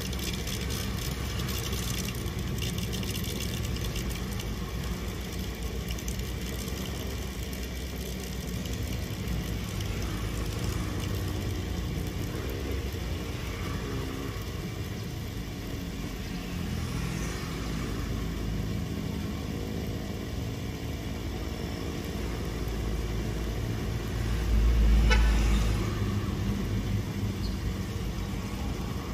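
Steady low rumble of a vehicle engine idling, with a louder rumble swelling for a couple of seconds about 25 seconds in.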